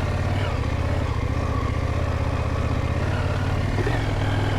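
Motorcycle engine running at low, steady revs while the bike rides slowly, with a slight rise in revs near the end.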